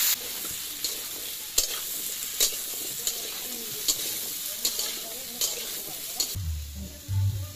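Squash cubes sizzling in hot oil in a steel wok, stirred with a metal spatula that scrapes and knocks against the pan about once a second. Near the end the sizzle drops away.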